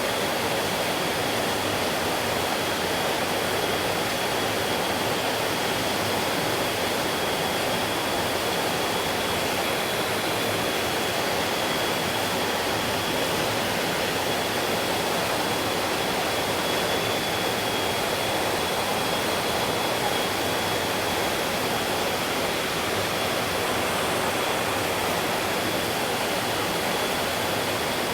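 Stream water flowing, a steady unbroken rush, with a faint thin high tone held throughout.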